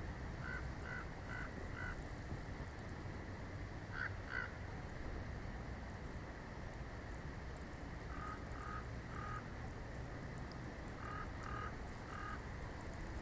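A bird calls in short, harsh notes in runs of two to four, about two or three notes a second, repeated several times. Underneath is a steady low rumble of wind noise.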